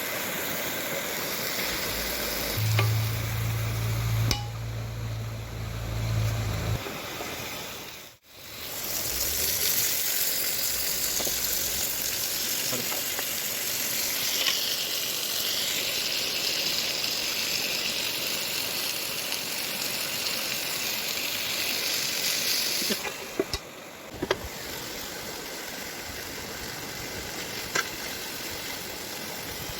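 Food sizzling as it fries in a pan: a steady hiss that breaks off briefly about eight seconds in, with a low hum for a few seconds near the start.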